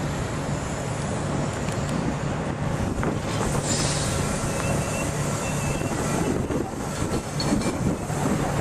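Class 67 diesel locomotive hauling a passenger train slowly into a station, its engine running with a steady low hum under the rumble of the train. About three and a half seconds in comes a brief burst of hiss, and faint thin squeals follow for a couple of seconds.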